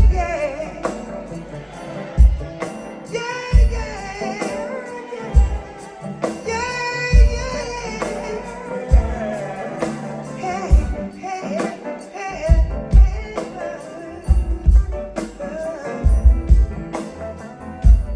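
Live soul band playing with a singer, a regular low beat from bass and drums, and a tambourine.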